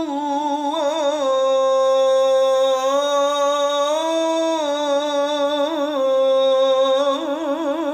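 A man's voice chanting the Islamic call to prayer (adhan), drawing one syllable of 'rasulullah' out into a long melismatic line. It holds steady notes and steps up and down in pitch, with quick ornamental trills several times.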